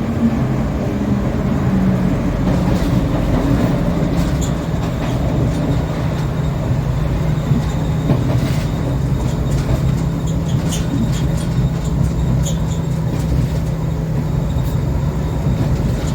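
Passenger train pulled by an Indian-made diesel locomotive, running on the rails: a steady loud rumble with a low hum, and sharp clicks scattered through the second half.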